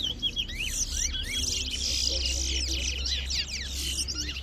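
Caged towa-towas (chestnut-bellied seed finches) singing against each other in a song race: rapid, overlapping high chirped phrases with no break.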